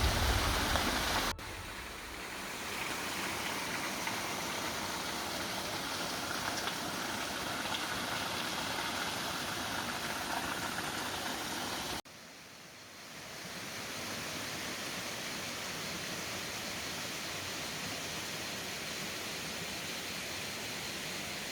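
Steady rush of a river's running water. Music stops abruptly about a second in; the water sound breaks off sharply about halfway through and fades back in over a second or two.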